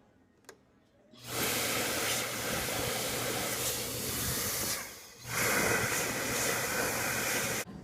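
Steady rushing hiss with a faint low hum under it, starting about a second in, dipping briefly just before five seconds in, then running on until it cuts off suddenly near the end.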